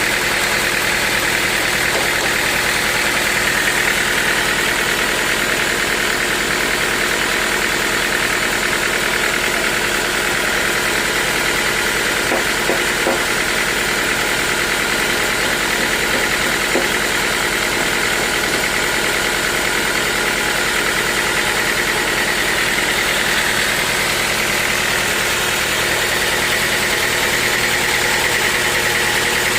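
Sawmill machinery running steadily: a constant mechanical drone with a high whine that holds its pitch throughout.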